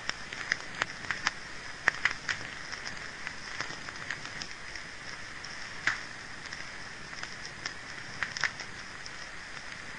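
Wood fire crackling in a fireplace: irregular sharp pops and snaps over a steady hiss, with the loudest pops about two and six seconds in.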